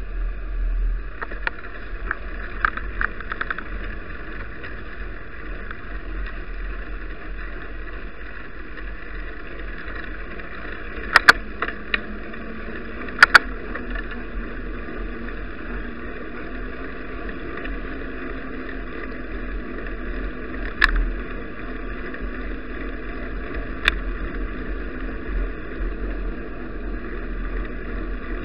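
Steady muffled rumble of wind and riding noise picked up by an action camera on a moving bicycle. A few sharp knocks stand out, two quick pairs about halfway through and single ones later.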